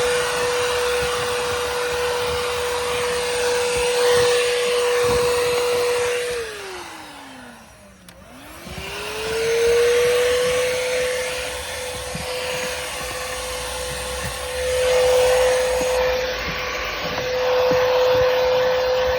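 Stihl SEA 20 cordless hand vacuum running, a steady motor whine over rushing suction noise. About six seconds in it is switched off and its pitch falls as the motor spins down, then it is switched back on and winds back up to full speed within about two seconds.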